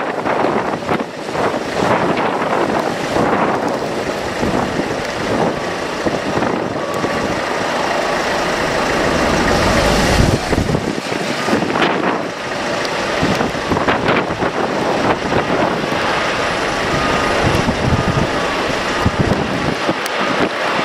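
Jet airliner engines on a landing approach, a steady roar with a faint whine that builds to its loudest about halfway through. Gusting wind buffets the microphone throughout.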